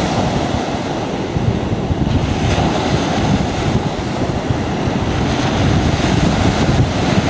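Surf breaking on a beach, with strong wind buffeting the microphone in an irregular low rumble.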